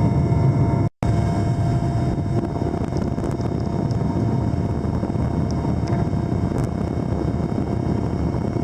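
Helicopter in flight: steady engine and rotor noise with a constant whine, cutting out for a split second about a second in.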